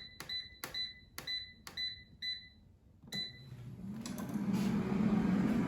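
Air fryer control panel beeping as its buttons are pressed, about two short beeps a second, then one last beep about three seconds in. The air fryer's fan then starts, and its hum rises in level.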